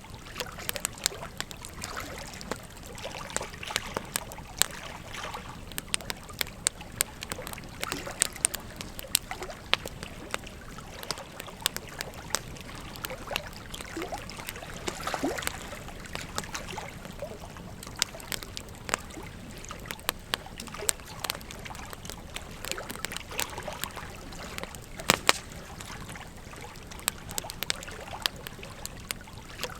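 Wood fire crackling with frequent sharp pops over the steady rush of flowing river water; a couple of louder pops about 25 seconds in.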